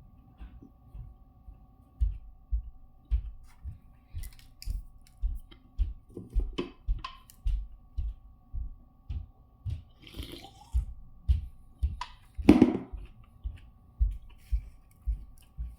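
Close-up chewing of a sandwich: steady, rhythmic low thumps about twice a second, with a few louder mouth sounds, the loudest about twelve and a half seconds in.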